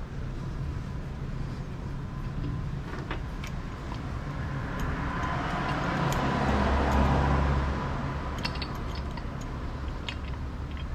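A motor vehicle passing: a broad rushing noise that swells to a peak just past the middle and fades again, over a steady low hum. Light metallic clicks and taps are scattered through it.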